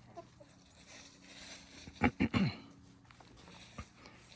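Chickens clucking: three quick calls close together, each falling in pitch, about two seconds in.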